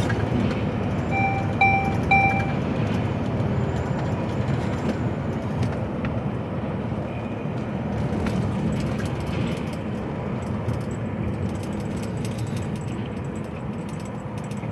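Steady low rumble of an HGV lorry heard from inside the cab, with three short electronic beeps about a second in.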